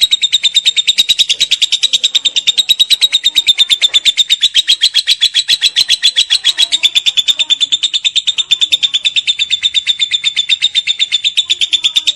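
Lovebird singing a long, unbroken 'ngekek' chatter: a rapid, even string of sharp high notes at a nearly steady pitch, held without a pause.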